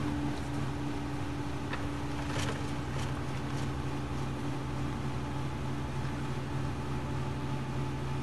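An engine running steadily at constant speed, a low even drone, with a few faint clicks in the first few seconds.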